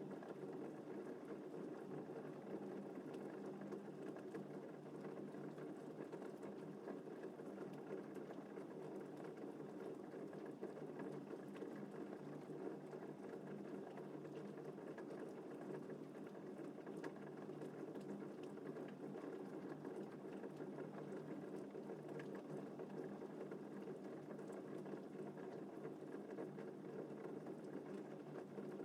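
Steady rain falling in an even patter, with faint scattered drop ticks.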